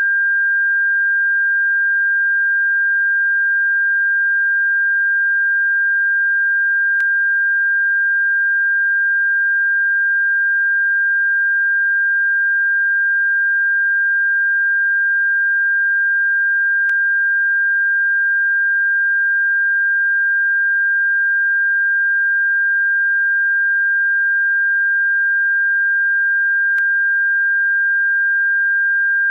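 Synthesized pure tone played as a bird-repellent sound: a single steady, unwavering pitch held without a break, with a faint click about every ten seconds.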